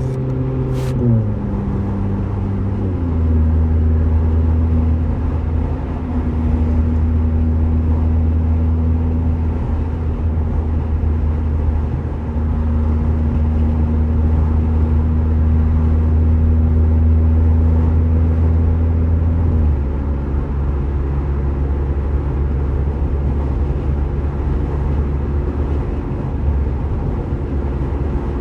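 Tuned Seat Leon FR's engine droning at steady highway cruise, heard from inside the cabin over tyre and road noise. The engine note falls about a second in, holds steady, then drops a little again about two-thirds of the way through.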